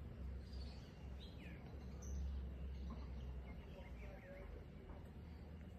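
Small birds chirping now and then in short rising and falling calls, over a steady low rumble.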